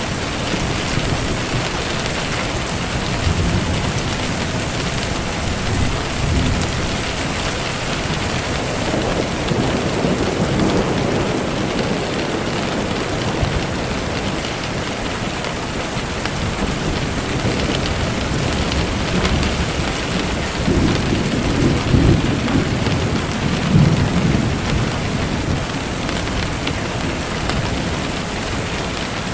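Steady rain falling, with low rolling thunder swelling up a few times.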